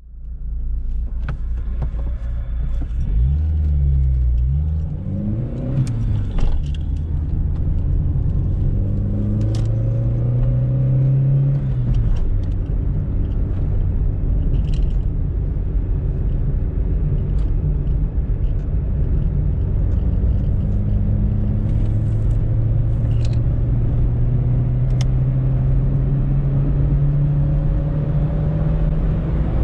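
Opel Corsa B's 1.4-litre 60 PS four-cylinder engine under acceleration. The revs rise and fall with quick gear changes in the first few seconds, climb again and drop at a shift about twelve seconds in, then rise slowly and steadily. Faint clicks are scattered throughout.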